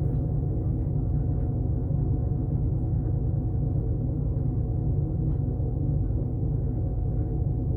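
Pickup truck engine idling steadily, a low even hum with no change in speed.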